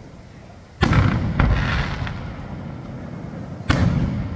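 Aerial firework shells bursting: two loud bangs about three seconds apart, each followed by a fading rumble.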